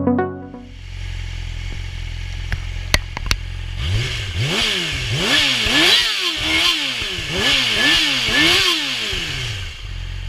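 Yamaha R6 inline-four sport bike engine idling through a CPS titanium aftermarket exhaust, then revved in a quick series of about nine throttle blips, each rising and falling in pitch, before settling back to idle. A few sharp clicks come just before the revving.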